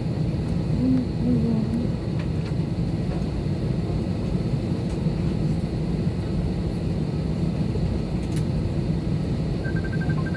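Steady low rumble of aircraft cabin noise, with a constant hum underneath. Near the end comes a quick row of short, high beeps.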